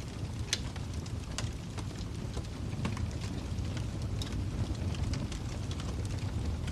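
Wood fire burning in a fireplace: a steady low rumble of flames with irregular sharp crackles and pops, a strong one about half a second in.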